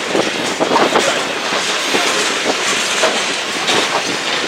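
BNSF freight train rolling past, a steady rush of wheel and rail noise with irregular clacks of wheels going over the rail joints.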